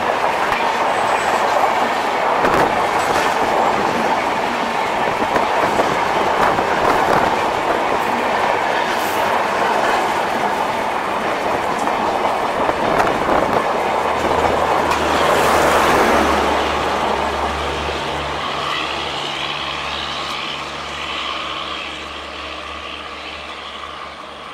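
Express train's coaches rushing past at speed, the wheels clattering rhythmically over the rail joints. About halfway through a steady low hum joins, and the noise then fades steadily as the train goes by.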